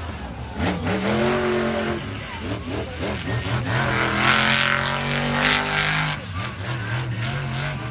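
Monster truck engine revving hard, its pitch rising and falling again and again, with a louder rush of noise around the middle.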